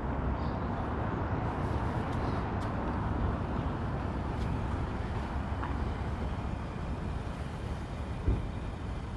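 Steady low rumble of road traffic, with a single short thump near the end.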